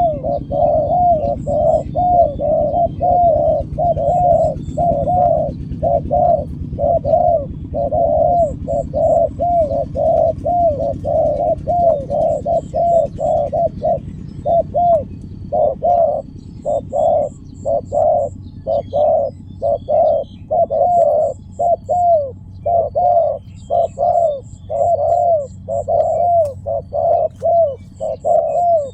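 Spotted dove (tekukur) cooing: a rapid, unbroken series of short coos, about two a second, each with a bending pitch. Faint, high, quick chirps come in short clusters now and then.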